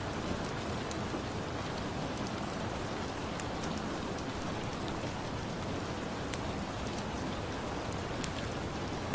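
Steady rain ambience, with sparse sharp crackles from a wood fire.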